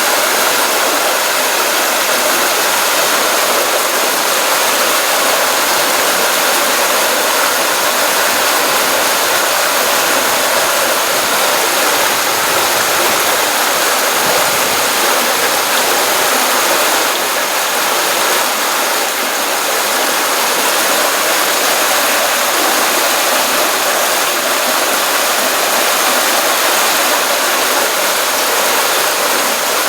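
Stream water running over into a pond, a steady, even rush of flowing water after a rainstorm.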